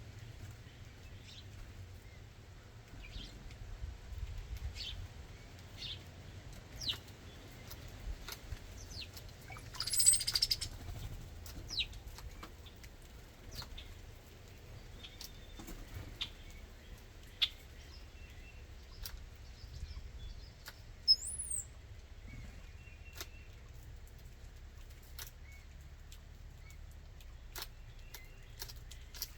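Backyard songbirds calling with scattered short, high chirps, a louder harsh burst about ten seconds in and a brief whistled call near twenty seconds, over a steady low rumble.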